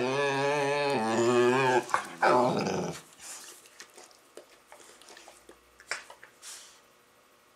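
Labrador retriever making a long, wavering growling moan while playing, about two seconds long, then a shorter second one. After that come only faint scattered clicks and knocks.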